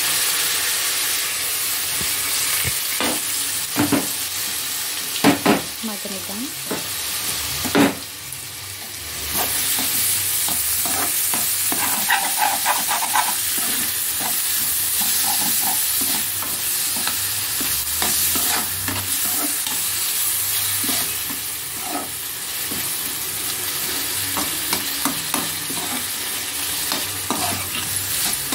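Chopped tomatoes sizzling in hot oil in a metal kadai, with a metal spatula scraping and knocking against the pan as they are stirred. The sizzling dies down briefly about eight seconds in, then picks up again.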